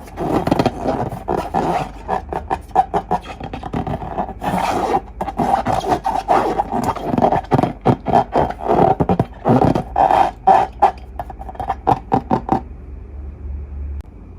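Rubber balloons squeaking in a quick, irregular series of short squeaks that stops abruptly near the end.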